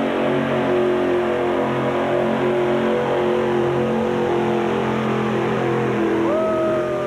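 Super modified two-wheel-drive pulling truck's engine running loud and steady at full throttle while it drags the sled down the track. About six seconds in, a separate high tone rises sharply, holds, then falls away.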